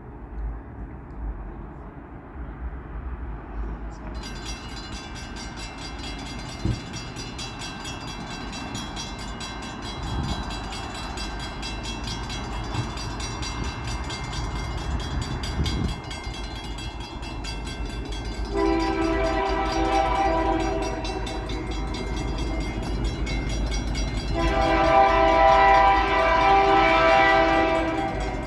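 Reading & Northern 5049 freight train approaching, its rumble growing louder, then sounding its multi-note horn in two long blasts, the second louder.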